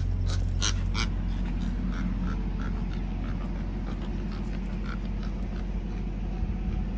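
Steady low rumble of an idling engine, with a quick run of short, high chirps or clicks in the first two seconds that then thin out to a few scattered ones.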